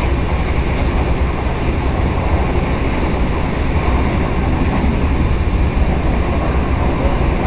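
Passenger train carriage running at speed, heard from inside the coach: a steady, even deep rumble with rushing noise over it.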